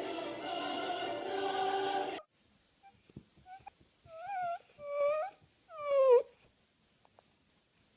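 Background music that cuts off suddenly about two seconds in, then three short wavering animal cries about a second apart, the last one the loudest and falling in pitch.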